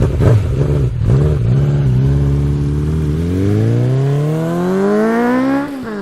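2015 Yamaha R3's 321 cc parallel-twin engine running without its muffler, with the catalytic converter left on: it is blipped a couple of times, then revved in one long climb that drops off suddenly near the end.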